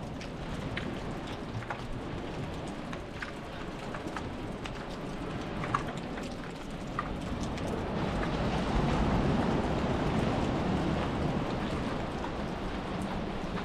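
Steady rain falling, with scattered drops tapping on an umbrella overhead. A deeper rushing swell rises about eight seconds in and slowly eases off.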